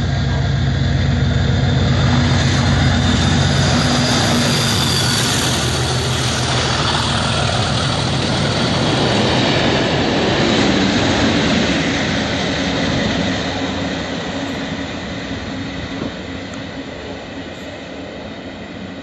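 Class 37 diesel locomotives with Network Rail test coaches passing at speed. The leading loco's English Electric V12 engine is loudest first, then the coaches rush past, with a second swell as the rear loco goes by. The sound fades away over the last few seconds.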